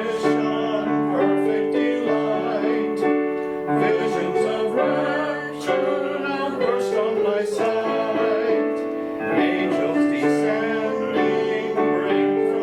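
A hymn sung with piano accompaniment: sustained piano chords under a slow melody sung by voices.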